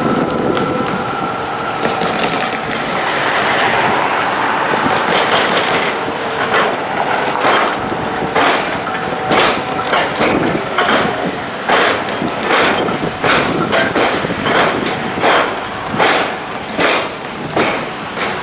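A train passing over the tram-square crossing, its wheels clacking in a steady beat over the gaps where the railway and tram rails cross, the beat quickening slightly.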